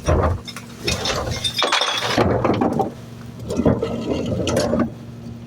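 Garbage being tipped into a trash truck's hopper: a few seconds of irregular clattering and glass clinking and breaking over the steady hum of the idling truck engine. The clatter stops near the end.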